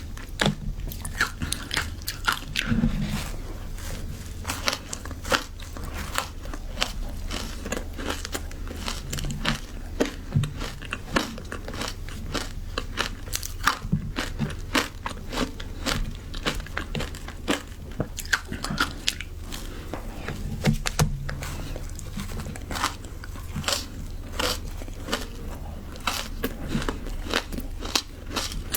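Frozen matcha ice being bitten and chewed: a continuous run of sharp, irregular crunches and cracks as the ice breaks between the teeth.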